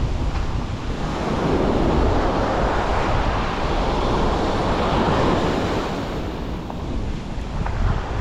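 Sea waves washing onto a beach. One long wash swells from about a second in and eases off near the end, with wind buffeting the microphone.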